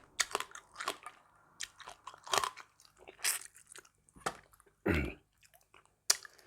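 Someone chewing and crunching a mouthful of spicy seafood papaya salad, with irregular wet crunches and mouth smacks. A louder, lower mouth sound comes about five seconds in.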